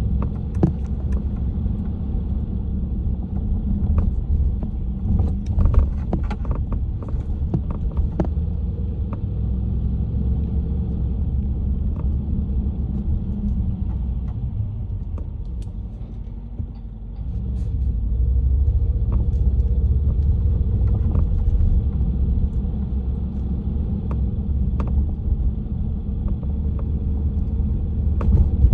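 Rattling from behind the dashboard of a Mercedes-AMG C63, heard in the cabin as irregular sharp clicks and ticks over the steady low rumble of the car on the move. The clicks come thickest a few seconds in; the rumble drops briefly about two-thirds of the way through, then picks up again.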